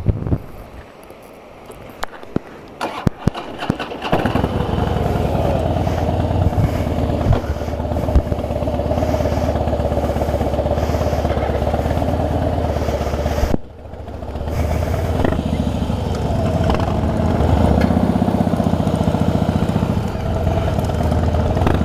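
Harley-Davidson V-twin motorcycle engine starting about four seconds in after a few clicks, then running steadily. It drops away suddenly about two-thirds through and comes back running.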